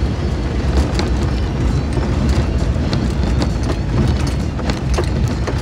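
Steady low rumble of a pickup truck driving, engine and tyre noise heard from inside the cab, with a few faint light clicks.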